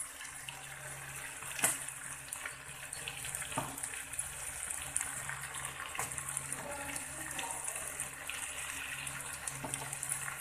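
Potato, aubergine and chickpea sabzi sizzling in an aluminium kadhai on a gas stove, a steady hiss, with a couple of sharp clicks of the metal spatula against the pan in the first few seconds.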